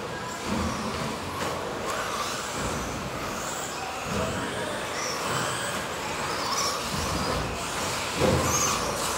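Electric radio-controlled cars racing on a track: motors whining up and down as they speed up and slow, over steady tyre and track noise, with a louder thump about eight seconds in.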